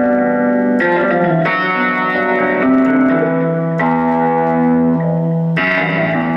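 Yamaha CK61 stage keyboard playing held chords on a custom-tweaked patch with a plucked, guitar-like sound through effects, a new chord struck every one to two seconds.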